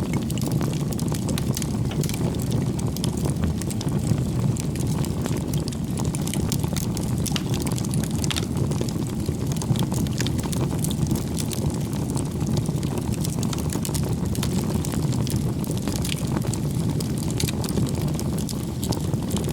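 Wood campfire burning: a steady low rush from the flames with many small sharp crackles and pops from the burning firewood.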